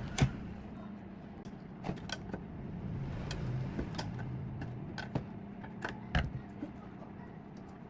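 Scattered clicks and knocks of tools and metal parts being handled during work on an old Honda generator, the loudest just after the start and about six seconds in, over a steady low hum.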